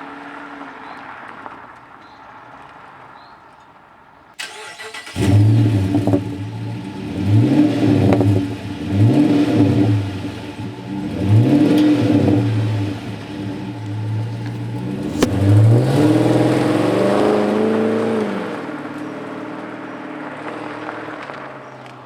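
Chrysler 300C's 5.7 Hemi V8 started about five seconds in, then blipped through several quick revs and one longer rev before settling to a steady idle through the exhaust.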